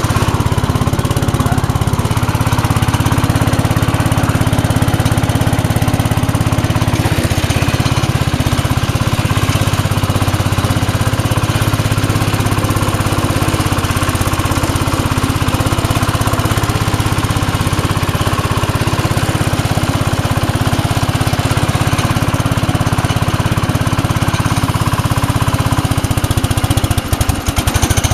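IH Cub Cadet 100 garden tractor's single-cylinder engine running steadily just after a cold start, with a brief dip near the end.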